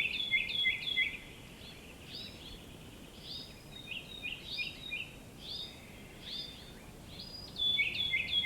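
A songbird singing: quick series of short, high chirps that each drop in pitch, repeated in phrases over a faint background hiss. It is loudest in the first second and again near the end.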